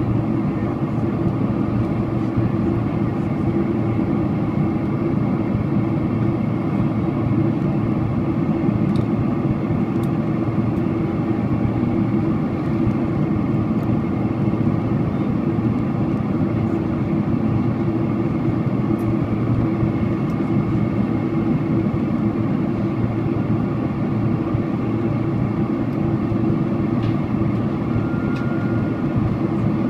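Steady cabin noise of a Boeing 767-400ER airliner in flight on descent: engine and airflow noise heard from inside the cabin, even and unchanging throughout.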